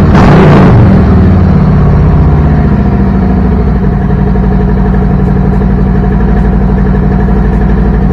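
2018 Harley-Davidson Road King Special's Milwaukee-Eight 114 V-twin, just started: it flares briefly in the first second, then settles into a steady idle.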